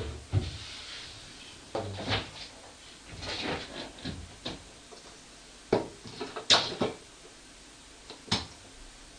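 Irregular household knocks and clunks, about ten of them, uneven in spacing and strength, the loudest about six and a half seconds in.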